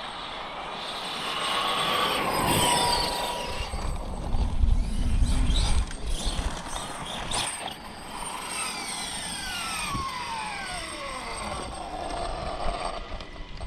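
Losi 5ive TE 3.0 1/5-scale electric truck on a full-throttle speed run: its brushless motor and drivetrain whine rising as it accelerates toward about 53 mph, then a long falling whine as it slows down past the middle.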